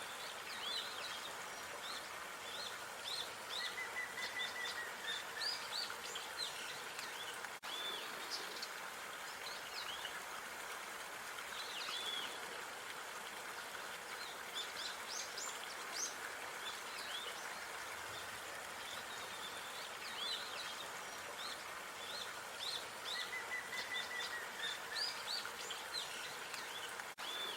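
Small birds chirping and trilling repeatedly over a steady outdoor background hiss of park ambience.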